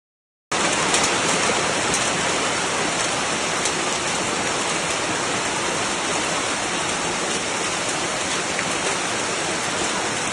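Heavy rain pouring down steadily, a dense, even hiss with a few faint ticks, starting about half a second in.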